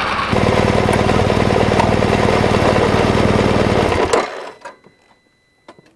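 BMW R1200GS boxer-twin engine running steadily at low revs, then switched off about four seconds in, the sound stopping abruptly. A few faint clicks follow.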